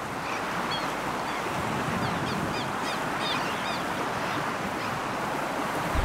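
Birds calling in short, arched chirps, several in quick succession, over a steady outdoor rushing noise.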